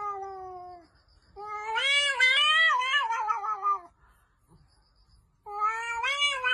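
Domestic cat yowling in long, drawn-out meows. The first call falls in pitch and stops about a second in, a longer wavering call follows, and a third starts near the end.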